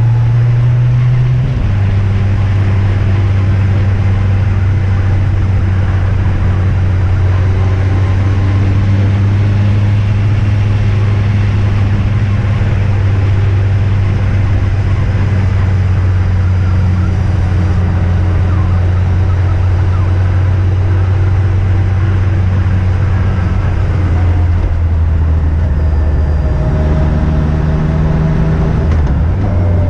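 Yamaha FJR1300 motorcycle's inline-four engine running on the move, with a steady rush of wind noise. The engine note drops about a second and a half in, holds steady for most of the time, then climbs near the end and falls again just before the close.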